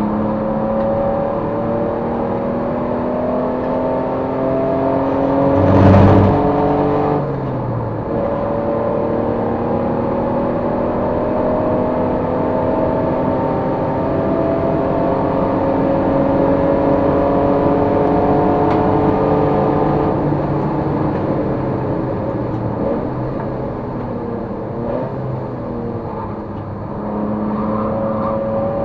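Racing engine running hard under load, its pitch climbing slowly as it pulls through the revs. About six seconds in there is a single sharp, loud crack, after which the revs drop and then build again.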